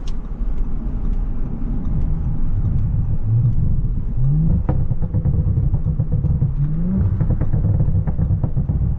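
Audi S5 engine and road rumble heard from inside the moving car with the sunroof open. The engine's pitch briefly rises a few times as the car accelerates.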